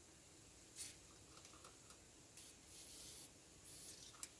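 Faint, short hisses and rubbing, four or five times with a sharp tick near the end, as a lubricant is put on two bolts so they will go back in easier.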